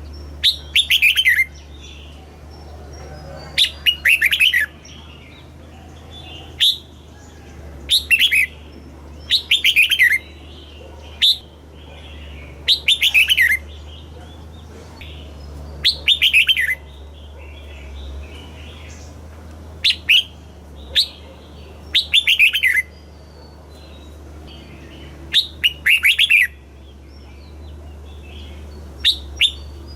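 Red-whiskered bulbul singing short phrases of quick falling notes, a phrase every two to four seconds, over a steady low hum.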